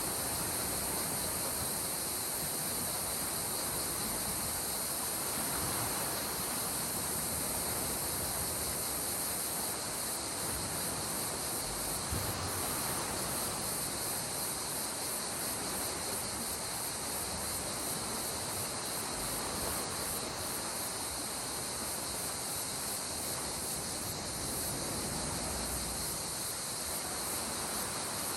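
Gentle sea waves washing on the shore as a steady hiss, under a continuous high-pitched chorus of insects.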